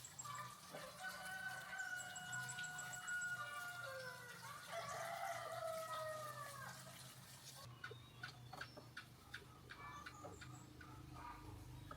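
A rooster crowing once: a long call held steady, then falling in pitch, over a faint low hum. Light clicks and taps follow in the last few seconds.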